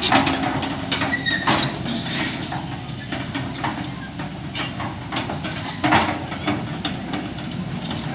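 Excavator's diesel engine running steadily, with several sharp metallic knocks and clanks, the loudest about six seconds in.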